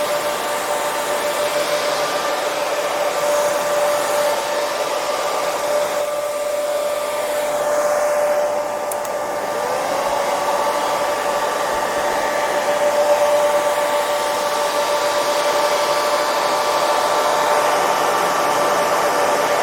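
Hair dryer running continuously: an even rush of blown air with a steady motor whine. About halfway through, the whine dips briefly and slides back up to its pitch.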